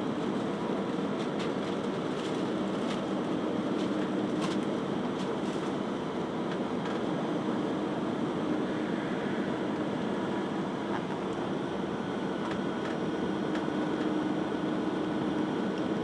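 Airbus A320 heard from inside the passenger cabin: a steady rush of engine and airflow noise with a low hum, no sudden change, and a few faint ticks.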